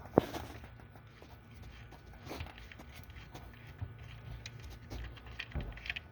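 Faint handling sounds as the oil drain bolt is unscrewed by hand under the motorcycle: one sharp click about a quarter second in, then scattered small clicks and knocks.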